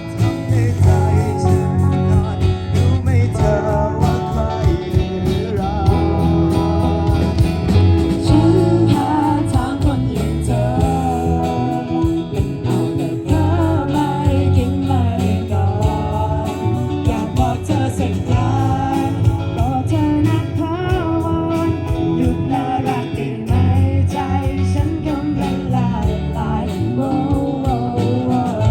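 A school band playing a pop-rock song live: guitars over a steady low end, with a lead voice singing the melody.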